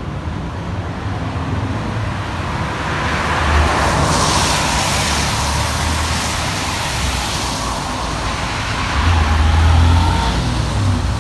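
A car passing on a wet road: its tyre hiss swells over a few seconds and fades, over a steady low traffic rumble. A louder low rumble comes near the end.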